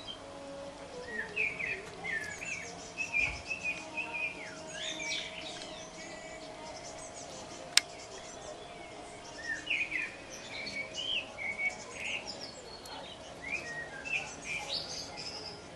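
Small birds chirping busily, many short high chirps one after another, over a faint steady hum. One sharp click sounds about eight seconds in.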